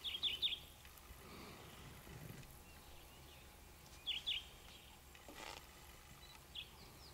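A bird chirping in short groups of quick, high, falling notes: three or four right at the start, two more about four seconds in, and a single one later, over a faint steady outdoor background.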